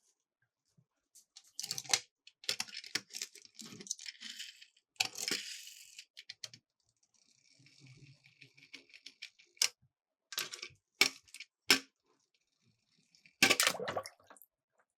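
Small toy cars clattering and rattling on a plastic track, in irregular sharp clicks and brief rattles, with a stretch of steady rolling hiss a little past the middle.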